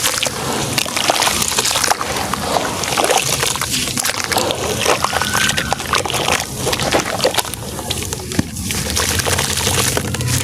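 Sand-and-cement shapes crumbling in water in a tub: a dense, continuous run of small crunches and cracks with wet, watery sounds.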